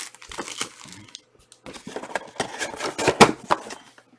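Trading cards being handled and sorted on a tabletop: irregular clicks, taps and rustles of cards and card holders, in two bursts with a sharper click about three seconds in.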